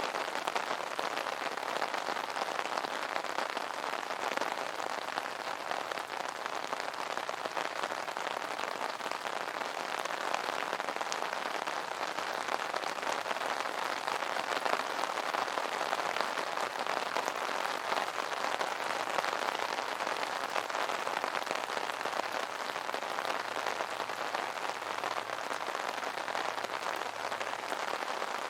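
Steady rain pattering on an umbrella canopy, a dense even spray of drops with no thunder.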